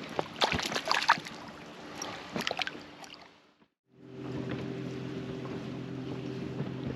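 Scattered clicks and knocks of handling in a fishing boat, then after a brief break a boat motor running steadily at an even pitch, with wind and water noise.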